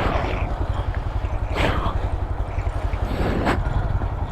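Mini bike engine running as the bike rides in tight circles, with a heavy, uneven low rumble. Two brief sharp noises come about a second and a half and three and a half seconds in.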